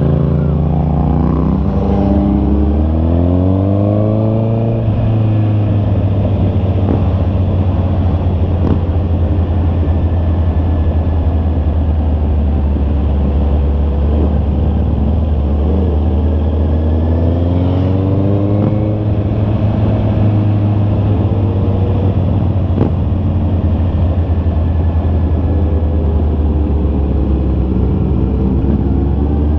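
Honda CB650R's inline-four engine running while riding. Its pitch climbs in rising runs as it accelerates up through the revs, once near the start, twice around the middle and again at the very end, with a steady cruising note between.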